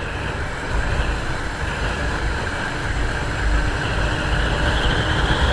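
Yamaha FZ-S motorcycle running along at road speed, its engine drone mixed with steady wind rush on a helmet-mounted camera.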